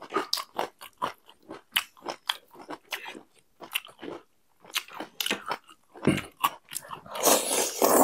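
Close-miked chewing of instant noodles: a run of short, wet mouth clicks and smacks. Near the end comes a louder, longer slurp as a mouthful of noodles is drawn in.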